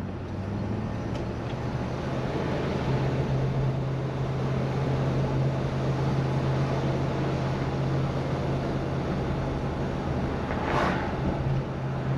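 1968 Plymouth Fury's 383 big-block V8 heard from inside the cabin while driving, a steady engine hum over road and tyre noise; the engine note steps up in pitch about three seconds in and holds there. A brief whoosh near the end.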